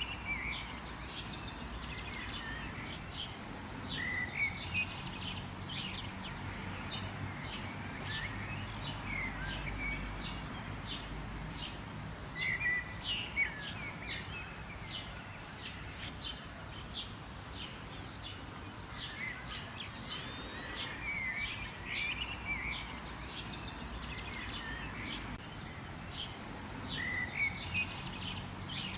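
Songbirds chirping and calling: a dense run of short, high chirps with a few warbling phrases, over a steady low background rumble.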